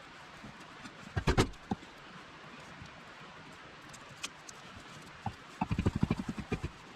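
Knife chopping food on a board on a truck tailgate: a few sharp knocks about a second in, then a fast run of chopping at about eight to ten strokes a second near the end.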